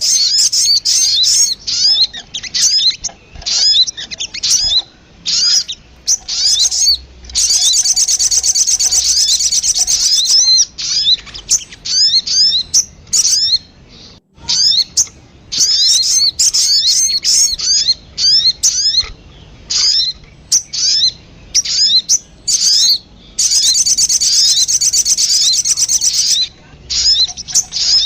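Sogon (sogok ontong) sunbird calls played as a lure recording: rapid runs of high, sharp chirps with short breaks. There are two longer, denser twittering stretches, one about eight seconds in and one late on.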